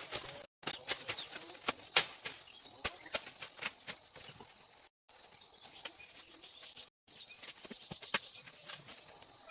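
Insects trill steadily in a high, broken pattern, over irregular sharp clicks and knocks, the loudest about two seconds in. The sound cuts out briefly three times.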